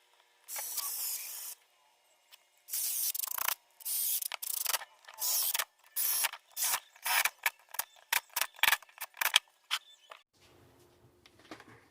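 A brief hiss, then a run of rasping mechanical strokes from hand work on the pump, each stroke shorter and quicker than the last, followed by a faint low hum near the end.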